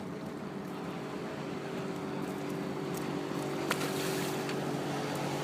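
Boat's outboard motor running steadily at low speed, slowly growing a little louder, with a sharp click about three and a half seconds in.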